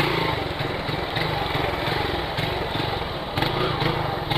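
Motorcycle engine breathing through a Polimet aftermarket exhaust, running steadily at an even cruising speed.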